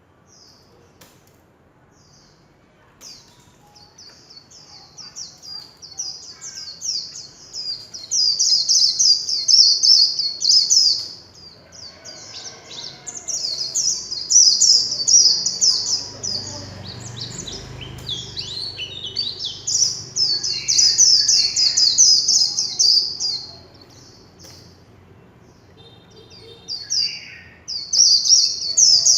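White-eye (vành khuyên) singing its rapid, high, twittering 'líu chòe' warble in long runs of several seconds, broken by a couple of short pauses with softer single chips.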